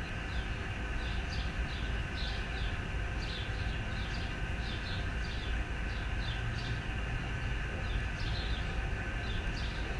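Steady low outdoor rumble, with a bird chirping over and over in short high notes, about three a second.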